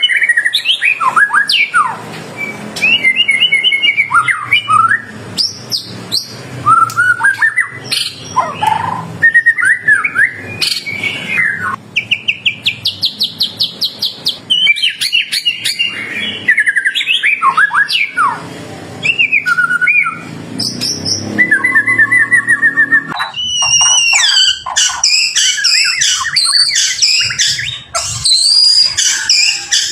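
White-rumped shama (murai batu) singing a loud, varied song of whistled phrases and pitch glides, with a fast run of repeated notes near the middle. About two-thirds of the way in the song switches to higher, quicker chattering notes.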